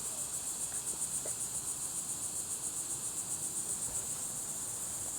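Steady chorus of insects in the woods, a high, fast-pulsing trill that carries on without a break.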